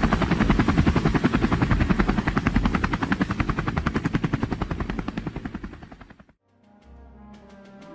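Helicopter rotor chopping in a fast, even pulse that fades over a couple of seconds and then cuts off abruptly. About a second later, slow music with sustained brass-like tones begins.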